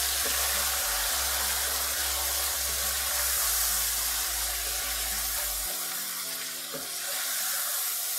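Chicken pieces, chopped tomatoes and spice powders sizzling steadily as they fry in oil in a karahi, stirred with a wooden spatula that now and then knocks faintly against the pan.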